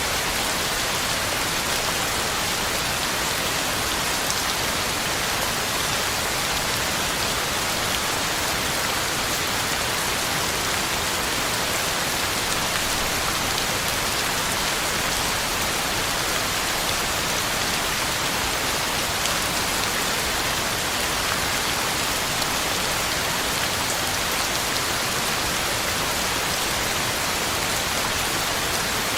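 Steady heavy rain falling, a constant hiss of drops with fine pattering on the ground and leaves.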